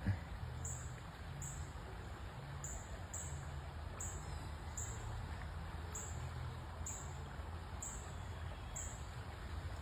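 Flood-swollen river rushing in a steady wash of noise, with a high, regular chirp repeating about twice a second, like an insect such as a katydid or cricket calling.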